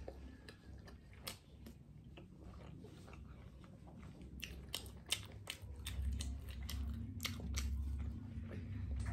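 Close-miked chewing of food with the mouth closed: scattered small wet clicks and smacks that crowd together about four and a half seconds in. A low rumble rises from about six seconds.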